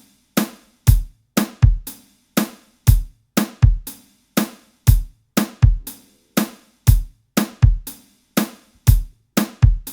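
Sampled acoustic drum kit (kick, snare and hi-hats) playing a repeating two-bar groove of sharp, evenly spaced hits with deep kick thumps among them. The reverb tails of the samples are trimmed short.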